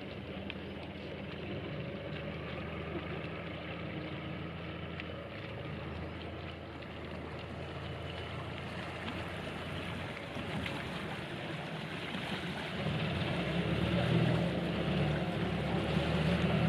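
A motor running steadily under a constant rushing noise, both growing louder about thirteen seconds in.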